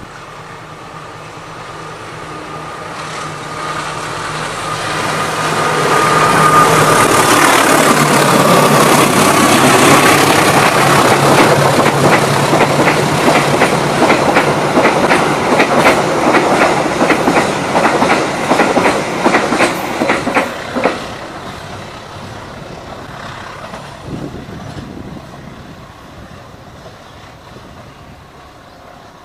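Freight train passing close by: the diesel locomotive's engine builds up and goes past, then the wagons' wheels click in a rhythm over the rail joints for several seconds before the sound fades away.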